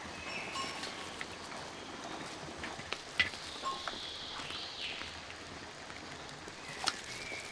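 Faint animal calls, thin high drawn-out tones, over a steady background hiss, with a few sharp clicks or knocks, the loudest about three seconds in and another near the end.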